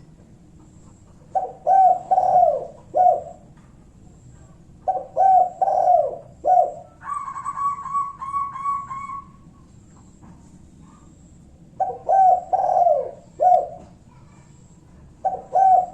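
Spotted dove (tekukur) cooing: short phrases of four or five low coos, repeated every few seconds, as used for a lure call to provoke a rival into answering. About halfway through, a higher, rapidly pulsed call from another bird runs for about two seconds.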